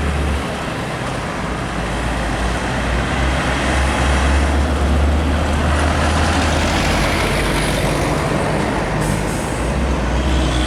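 Heavy truck on a road: a deep engine rumble with tyre and traffic noise, growing louder a few seconds in.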